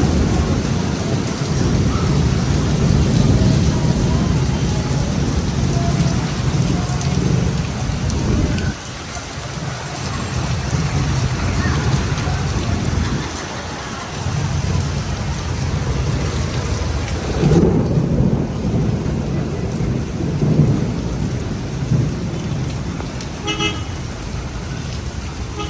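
Rain pouring down with long rolls of thunder rumbling low, the rumble easing for a moment about nine seconds in and again about thirteen seconds in.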